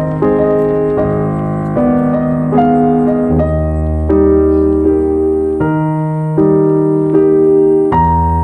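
Background piano music: slow, gentle chords changing about every half second to second over a sustained bass.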